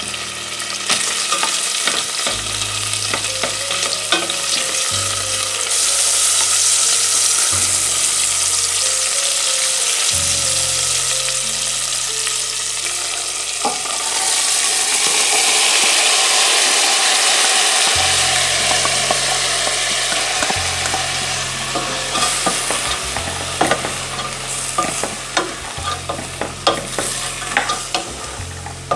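Diced pancetta sizzling in hot oil in a stainless steel pot. About halfway through, peeled fava beans are poured in and the sizzling swells; near the end a wooden spoon stirs them with a run of scrapes and clicks.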